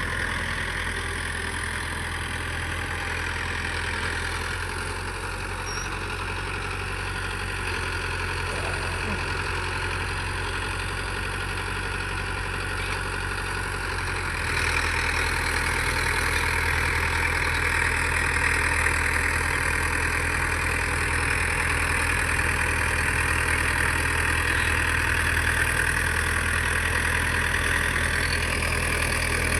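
Tractor diesel engine running steadily while working the field with a rotary cutter, growing louder about halfway through.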